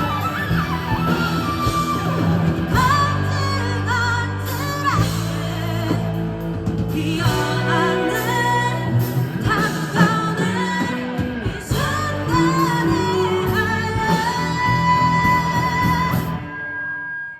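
Live rock band with a lead singer performing a pop-rock song in a large hall: sung melody over electric guitar, bass and drums. The music drops away sharply about a second before the end.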